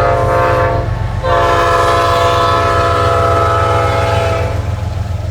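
Freight train locomotive's horn blowing: a short blast, then after a brief gap a long blast of about three seconds, over the steady low rumble of the passing train.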